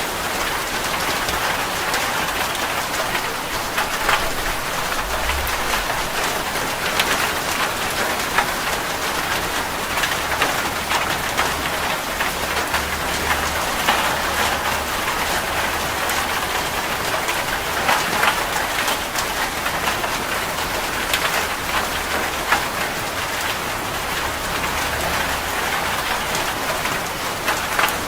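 Steady rain falling, with many separate drops ticking on a surface against an even hiss, and a faint low rumble now and then.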